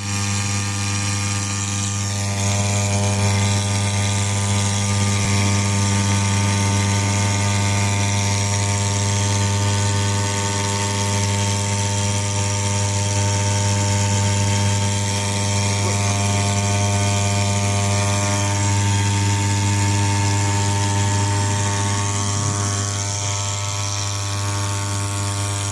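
Small petrol engine of a grass-trimmer outboard boat motor running at a steady speed, a constant even drone that holds one pitch throughout.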